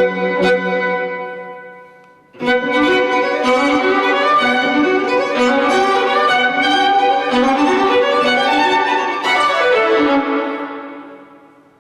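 Violin music: a melody in phrases, one dying away about two seconds in, a new phrase starting straight after, and the last fading out near the end.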